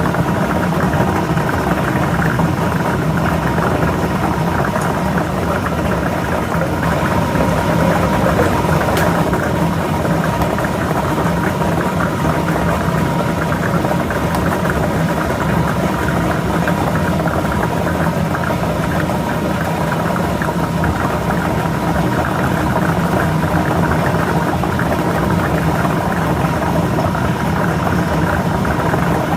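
Electric lottery ball machine running steadily, its motor humming with a constant whine while the balls mix inside.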